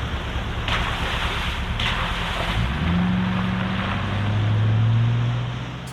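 Wind on the microphone and surf, with a low engine hum that steps up a little in pitch about three seconds in, swells, then fades near the end.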